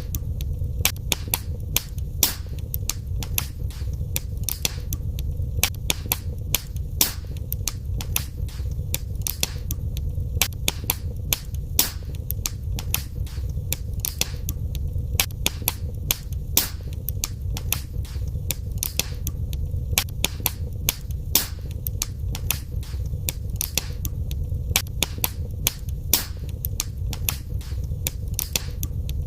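Wood fire crackling in a fireplace: frequent sharp snaps and pops, several a second, over a steady low rumble of the burning fire.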